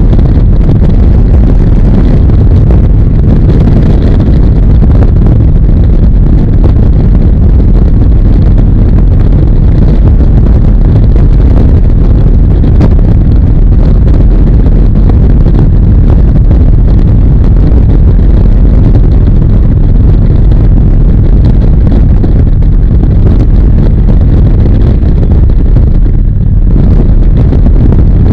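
Harley-Davidson motorcycle under way: loud, steady wind rush buffeting the microphone, with the engine and road noise running underneath.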